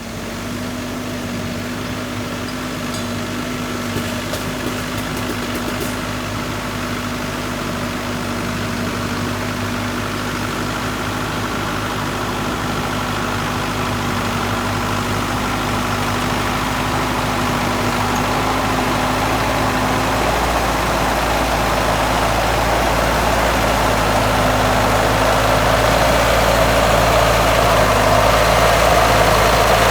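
Small engine running steadily with an even hum, starting abruptly and growing slowly louder.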